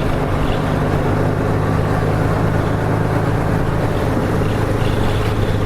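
Nissan Diesel KK-RM252GSN bus's diesel engine running at a steady, even pitch as the bus travels, with road noise under it.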